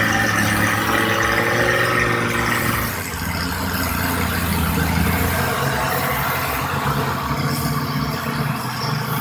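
Heavy machine's engine running steadily, with a slight dip in loudness about three seconds in.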